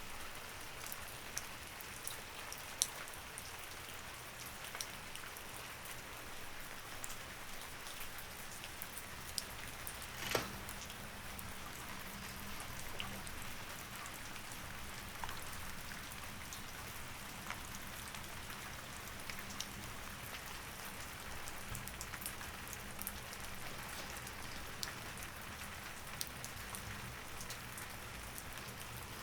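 Steady rain falling, with many scattered drops ticking close by and one louder tap about ten seconds in.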